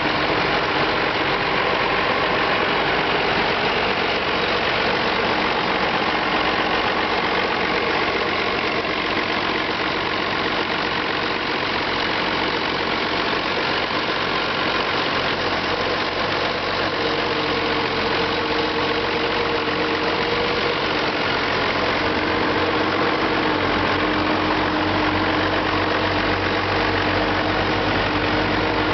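Six-cylinder turbocharged diesel engine of a 1963 Allis-Chalmers D19 tractor running steadily, its note shifting a little past halfway and with more low rumble near the end.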